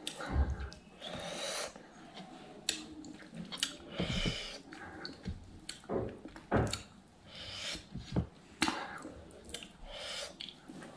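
A person chewing food close to the microphone, with scattered short mouth clicks and smacks throughout.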